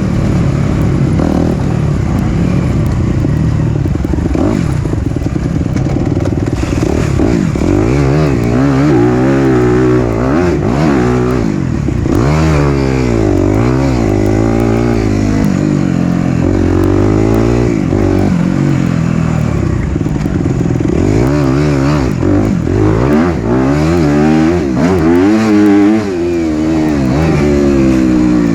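Loud single-cylinder four-stroke dirt bike engine on the move, its pitch rising and falling again and again as the throttle is worked and gears change.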